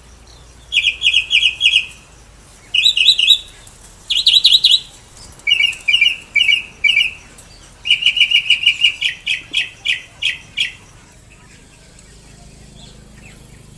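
A caged bird calling in loud runs of quick, shrill repeated chirps, about five bursts, stopping about eleven seconds in.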